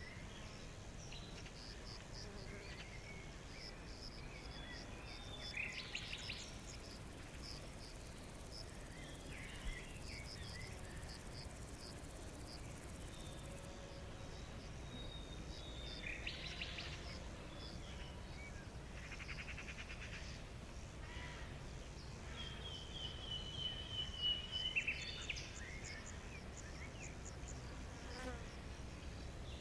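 Forest ambience: a fast, steady run of high chirps repeating several times a second, with scattered bird calls and short song phrases over it, the loudest near the middle and end, above a low steady background hum.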